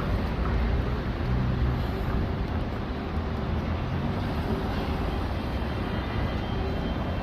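Steady low vehicle rumble with a faint constant hum.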